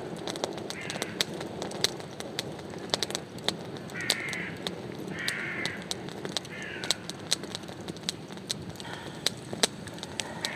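Crows cawing, about five harsh caws a second or more apart, over frequent sharp clicks and crackles.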